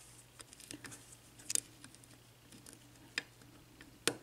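Lock pick clicking against the pins inside a six-pin Yale mortise cylinder during single-pin picking under light tension: scattered small, sharp metallic clicks, the loudest about a second and a half in and near the end.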